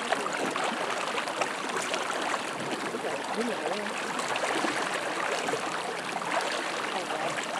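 Steady rushing of a swollen, flood-high river's current.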